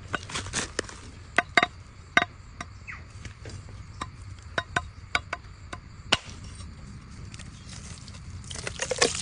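Irregular sharp taps and knocks, a dozen or so, the loudest about one and a half and two seconds in, with a rustling scrape building near the end.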